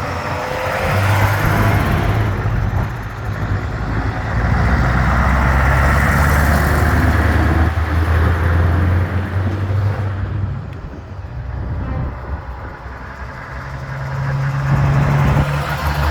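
Truck engines passing one after another, each swelling and fading away, with a second engine coming up near the end.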